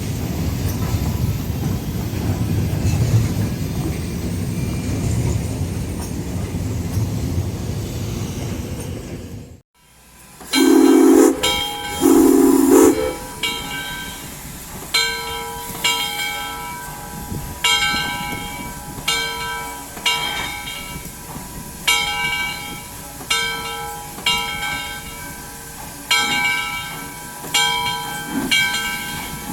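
A train rolling with a low rumble. After an abrupt cut, a steam locomotive gives two short whistle blasts, then its bell rings slowly and steadily, about one stroke a second, over a hiss of steam.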